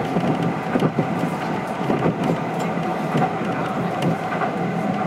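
Kintetsu 1220 series electric train car running at speed, heard from inside the car: a steady rumble of wheels on rails with a thin steady tone above it and a few light clicks.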